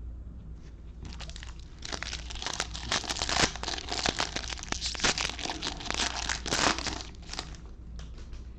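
Foil trading card pack wrapper being torn open and crinkled, a dense crackling that runs for about five seconds with sharp crackles throughout.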